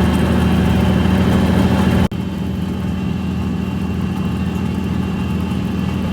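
Train's diesel engine running with a steady hum. About two seconds in, the sound drops out for an instant and comes back slightly quieter and duller.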